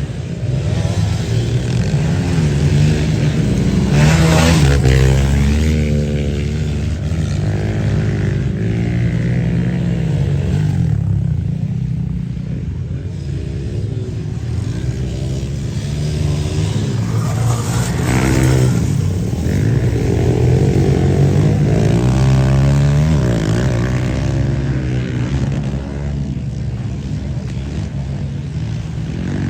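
Dirt bike engines running and revving, their pitch rising and falling again and again over a steady low engine drone.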